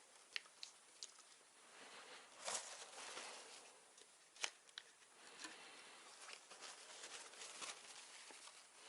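Faint hands-on handling noises: several small sharp clicks and light scraping and rustling as computer hardware is worked on by hand.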